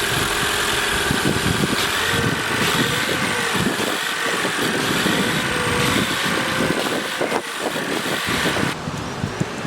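2024 Toyota Crown's 2.5-litre four-cylinder hybrid engine running steadily at idle.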